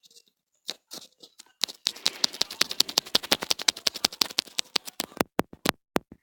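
A quick run of fingertip taps on a smartphone touchscreen, several a second, thinning out to a few single taps near the end: repeated tapping on a phone that is not responding.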